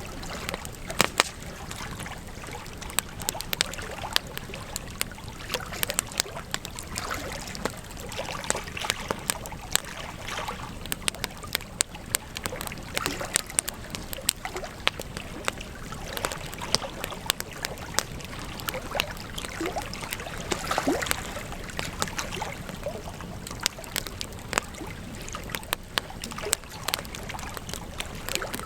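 Campfire burning, with frequent sharp crackles and pops over a steady hiss of flames.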